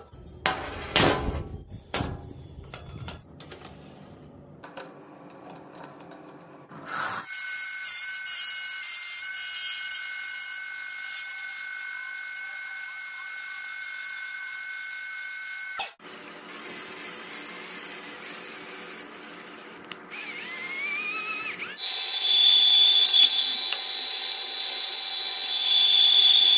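Clicks and knocks of handling, then a small electric power tool whining steadily at high pitch in several separate runs. The pitch changes abruptly between runs and briefly rises once, and the last run is the loudest.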